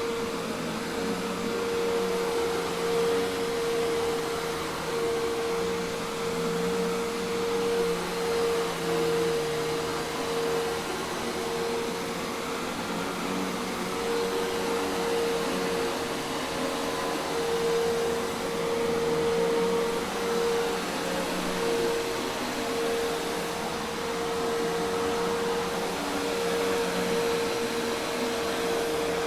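Hoover Task Vac commercial vacuum cleaner running steadily: a constant motor tone over a broad rushing hiss, with no stops or changes in speed.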